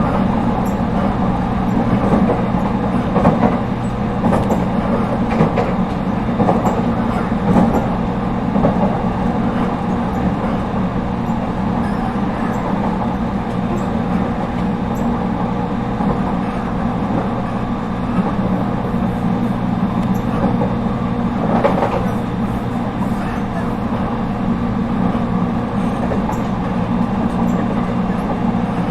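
Running noise inside an Echigo TOKImeki Railway ET127 series electric railcar, rebuilt with Toyo IGBT-VVVF traction equipment, at a steady pace: a continuous rumble of wheels on rail with scattered knocks, most in the first third and again about three-quarters of the way in.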